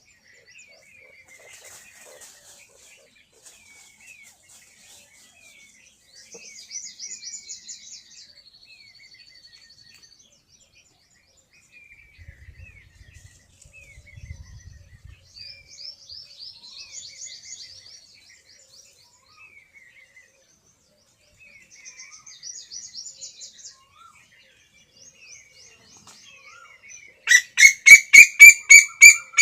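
Small birds chirping and trilling faintly on and off. Near the end, a loud burst of rapid, repeated calls for about two seconds.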